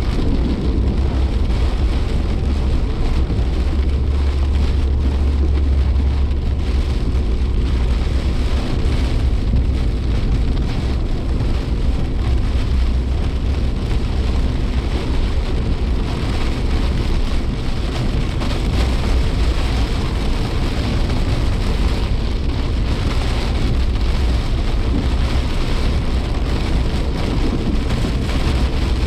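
Rain hitting a Suzuki Jimny Sierra's body and windscreen, heard from inside the cabin over the steady low drone of the moving car's engine and tyres.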